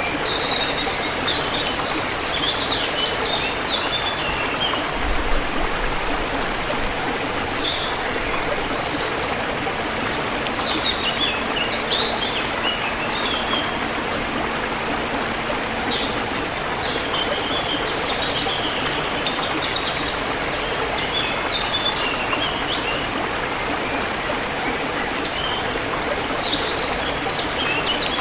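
Forest stream flowing steadily, with birds chirping in several spells of short high calls over the running water.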